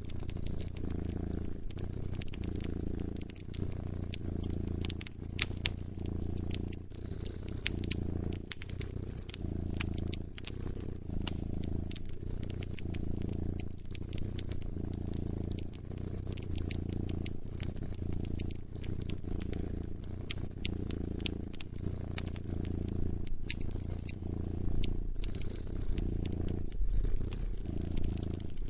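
A cat purring, a low purr that swells and eases about once every second and a half, over a wood fire crackling with scattered sharp pops.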